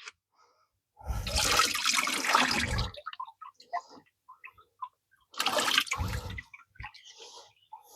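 Water splashing and sloshing in a parts-cleaning bath as soaked engine parts are worked in it, in two bursts: about two seconds long starting a second in, and a shorter one near six seconds, with small clinks and drips between.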